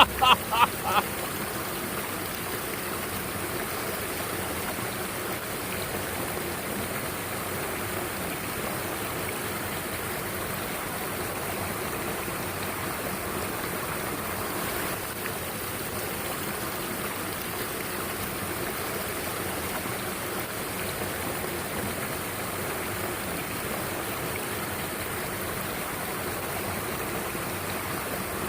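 Mountain stream water rushing and splashing with a steady, even sound.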